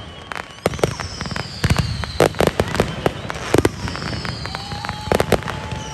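Fireworks going off: a rapid, irregular string of sharp bangs and cracks. Twice a long whistle falls in pitch over about a second and a half.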